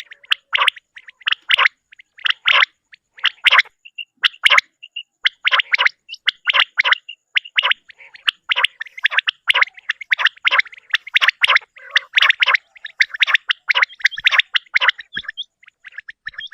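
Common quail calling over and over, short sharp liquid notes in quick groups with brief pauses between them.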